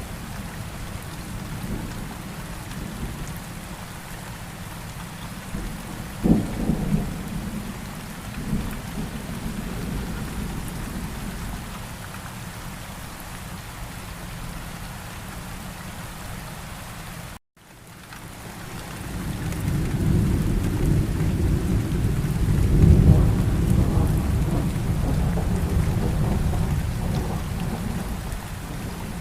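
Steady rain falling with rolls of thunder: a short rumble about six seconds in, then a longer, louder roll that builds after the midpoint and fades near the end. Just past the middle the sound drops out for a split second, like a splice in a looped recording.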